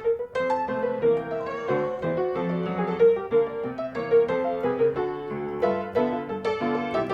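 Background piano music: a continuous run of quickly struck notes.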